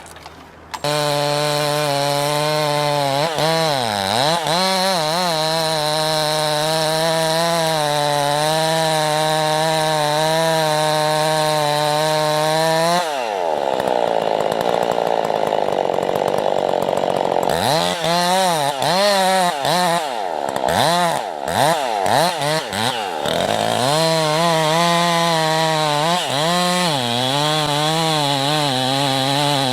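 A high-revving small engine cutting wood, starting abruptly about a second in; its pitch wavers under load, sags sharply about halfway through into a harsher stretch, dips several times a few seconds later, then steadies again.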